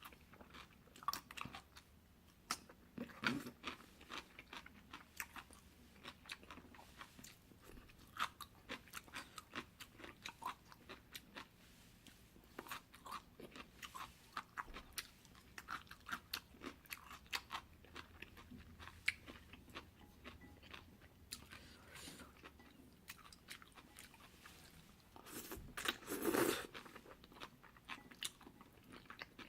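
Close-miked mouth sounds of someone eating jjolmyeon, spicy chewy cold noodles: steady chewing and biting, with many small crunching clicks. One louder, longer burst comes near the end.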